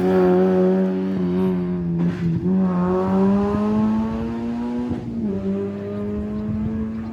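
Rally car engine under hard acceleration. Its pitch climbs and then drops at gear changes about two and five seconds in, and it fades as the car pulls away.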